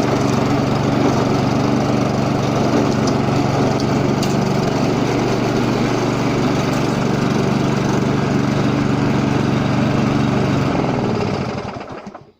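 Petrol engine of an FPLMP139 self-propelled lawnmower running steadily at a constant speed. About eleven seconds in it is shut off, and it winds down with falling pitch and stops.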